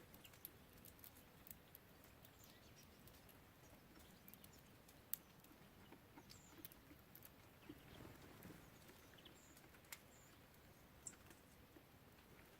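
Faint scattered taps and clicks of small birds pecking and landing at a seed feeder, the sharpest about five seconds in, with a few brief high chirps.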